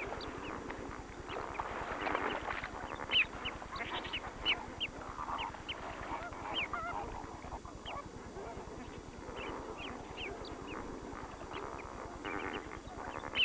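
A dense chorus of many waterbirds calling at once: a honking, goose-like clamour with many short, sharp high calls scattered through it.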